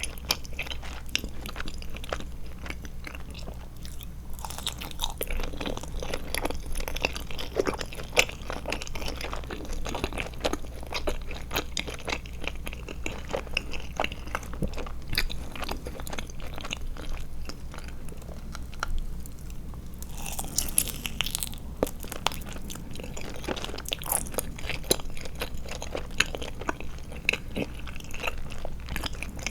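Chewing of Trolli Glotzer eyeball gummy candy: a continuous, dense run of small clicking mouth sounds, with a louder, hissier stretch about twenty seconds in.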